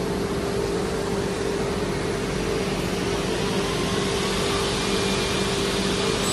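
Vertical CNC panel saw running after being started: a steady machine hum with a whooshing air noise, growing a little louder in the second half as the saw moves into the cut.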